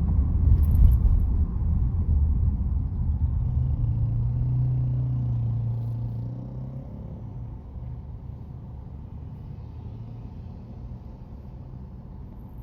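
Low rumble of a car driving on a city road, engine and tyre noise, louder for the first six seconds and then easing off.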